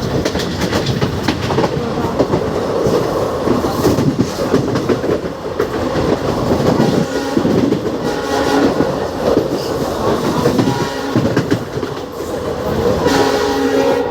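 Train hauled by twin WDP4D diesel locomotives running at speed, the wheels clattering over the rail joints. A horn sounds about eight seconds in and again near the end.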